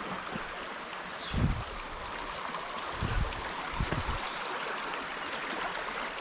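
Steady rush of running water, with a few low thuds about one and a half, three and four seconds in.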